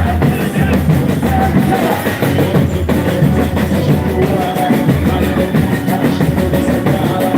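Live boi-bumbá toada music, loud and continuous, driven by heavy drums with a deep bass-drum beat under the band.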